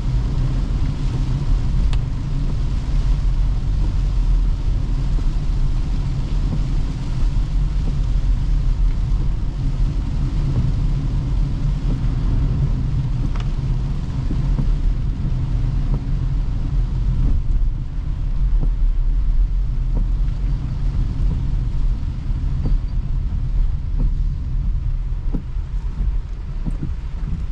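Toyota Hyryder hybrid SUV driving: a steady low rumble of road and tyre noise, with scattered light knocks, more of them in the second half.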